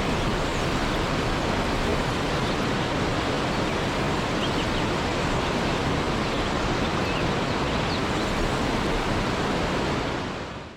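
Waterfall, a steady even rush of falling water, fading out quickly near the end.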